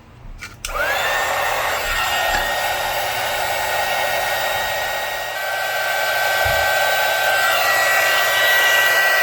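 Electric heat gun switched on with a click about half a second in, its fan whining up to speed and then blowing steadily, applying heat to a soldered wire repair.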